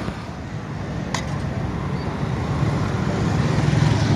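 Road traffic, with a vehicle engine's low hum growing louder towards the end, and one short click about a second in.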